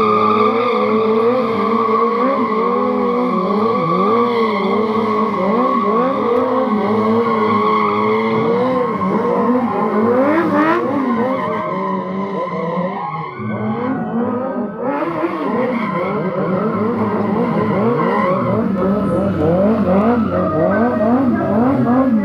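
Car tyres squealing, a pitch that keeps wavering up and down, with car engine noise under it.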